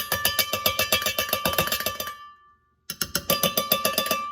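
A metal spoon clinking rapidly against the inside of a cup, stirring a spoonful of chocolate-hazelnut spread into coffee, with a ringing note after each strike. It goes in two runs, pausing briefly a little past halfway.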